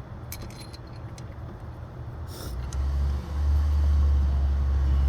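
A few light metallic clinks in the first second or so, like tools being handled, then a loud, steady low rumble starting a little past halfway.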